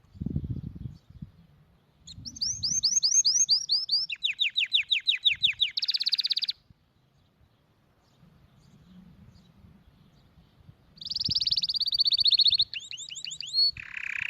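Canary singing two phrases made of fast runs of repeated high notes, each run on a different note: the first phrase about two seconds in, the second near the end. A short dull low thump comes at the very start.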